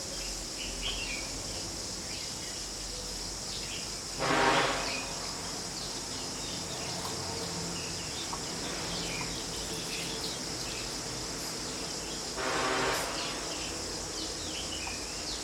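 Steady high-pitched insect drone, crickets or cicadas, with scattered short bird chirps. Two brief louder pitched sounds of about half a second each come about four seconds in and again near twelve and a half seconds.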